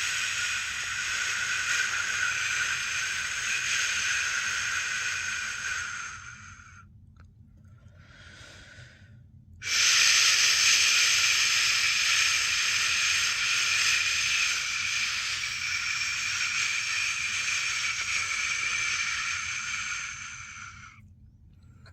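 A person shushing a newborn to sleep: two long, steady 'shhh' sounds, the second louder and about eleven seconds long. Between them comes a short, fainter hiss, likely a breath taken.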